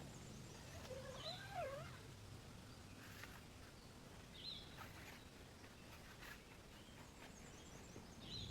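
Faint animal calls in a quiet outdoor background: three short high chirps several seconds apart, with a wavering lower call early on.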